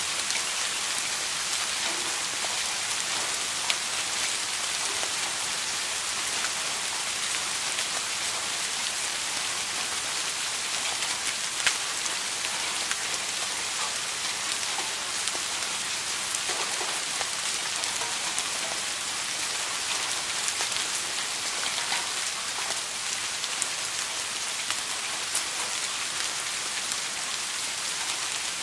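Steady rain falling on a surface, an even hiss with scattered sharper drop ticks, a slightly louder one about twelve seconds in.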